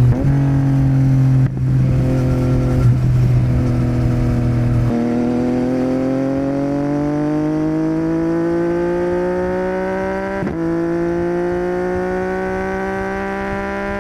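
Yamaha MT-09's inline-three engine through a Yoshimura R77 exhaust under way: the engine note holds level with two brief dips in the first few seconds, then climbs slowly and steadily in pitch as the bike gathers speed, with one short break about ten seconds in.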